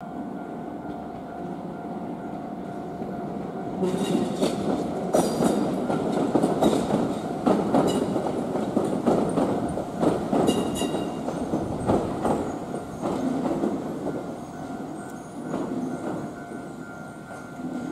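Kotoden (Takamatsu-Kotohira Electric Railroad) electric train running through the station, its wheels clacking over rail joints with brief squeals. Louder from about four seconds in, fading toward the end.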